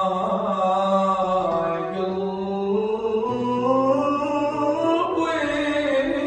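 A singing voice holding long, slowly gliding notes in an Arabic song's melismatic opening line.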